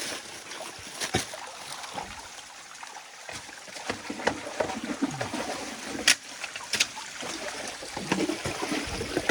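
Stream water running and trickling in the shallows, with a few short sharp splashes, the loudest about six seconds in.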